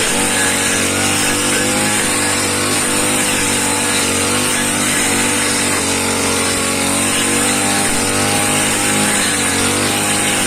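Small engine running steadily under load, its pitch wavering slightly up and down.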